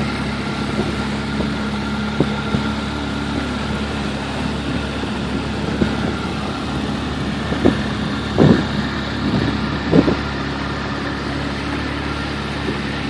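Boat motor running steadily, with a few short thumps over it, the loudest about eight and ten seconds in.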